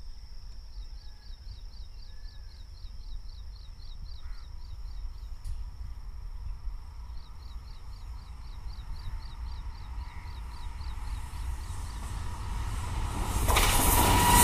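An approaching WAG-9 electric locomotive with a rake of tank wagons, its noise growing and loudest in the last second. Before it, a low rumble with a faint high steady tone and a chirp repeating about three times a second.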